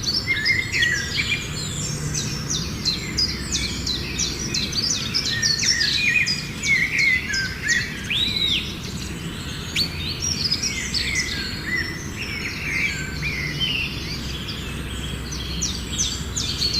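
Several songbirds singing and chirping at once, a dense chorus of short rapid notes and whistles, over a steady low background rumble.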